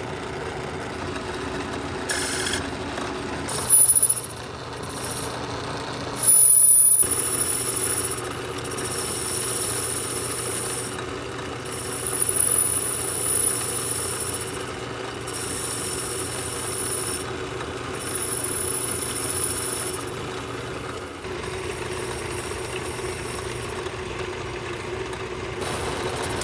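Metal lathe running steadily while a cutting tool, fed by hand on the angled top slide, turns a radius on a headlight rim. A high, thin whine from the cut comes and goes, with two brief louder bursts a few seconds in.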